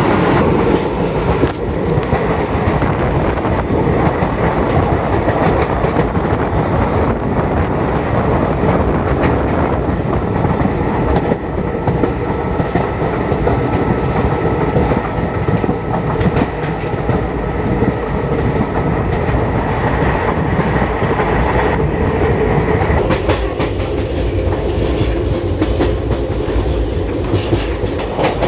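Passenger train running at speed, its wheels clacking over rail joints with a steady rumble and a faint whine.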